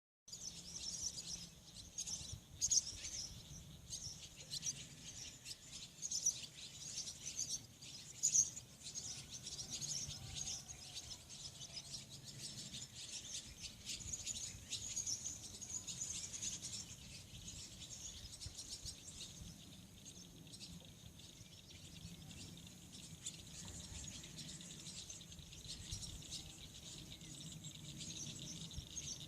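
Birds chirping over and over, with a steady high insect trill underneath.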